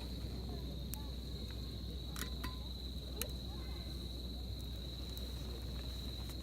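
Insects trilling in one steady high note, with a few sharp pops from a wood campfire crackling.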